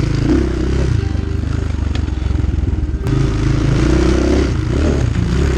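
Chinese 250cc dirt bike's engine running while ridden on single track, its engine speed rising and falling a little, with a sharp knock about three seconds in.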